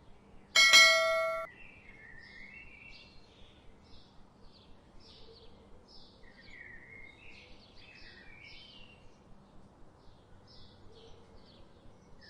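A single loud metallic ding about half a second in, ringing for about a second, over steady chirping of small birds.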